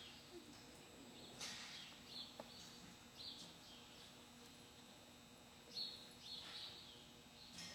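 Faint, scattered short chirps of small birds, a few every second or two, over a near-silent background.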